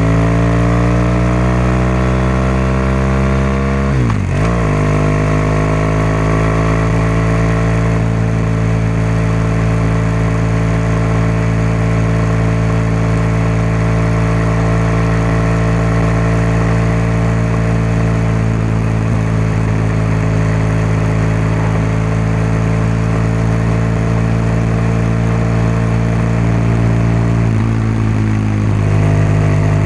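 BMW R1200GS boxer-twin engine and exhaust under way. The revs climb gently, drop briefly and pick back up about four seconds in, then hold steady, with a small change in revs near the end.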